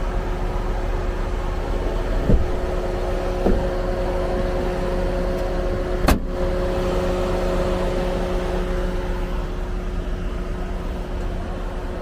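A vehicle's engine running steadily with a held tone, broken by three sharp knocks: one about two seconds in, one at three and a half seconds, and one a little after six seconds.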